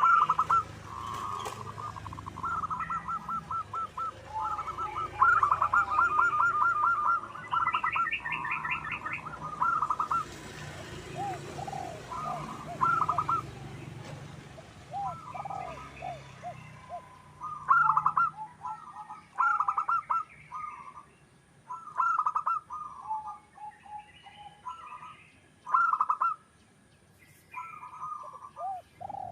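Zebra doves (perkutut) cooing: repeated runs of quick, stuttering coo notes, with gaps between phrases. Around a third of the way in, a faster, higher chirping series from another bird overlaps them.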